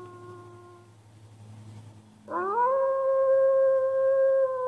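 Wolf howling: the falling tail of one howl fades out in the first second. About two seconds in, a new howl rises quickly and is held long at one steady pitch.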